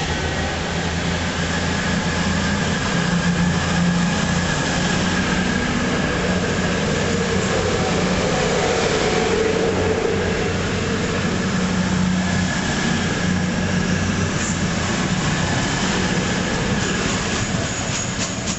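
Diesel multiple-unit passenger train moving past along the platform, its underfloor engines running steadily with a faint high whine. Near the end, rhythmic clicking from the wheels passing over rail joints.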